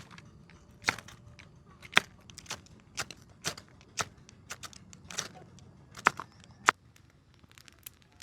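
Dry wood cracking and snapping: a run of sharp, irregular cracks, a few much louder than the rest.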